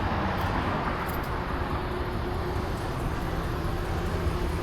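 Steady road traffic noise: an even low rumble with a wash of passing-vehicle sound and no distinct events.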